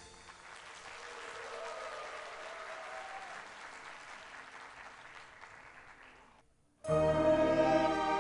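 Audience applauding after a musical piece, the clapping slowly dying away; after a short gap, loud instrumental music cuts in abruptly near the end.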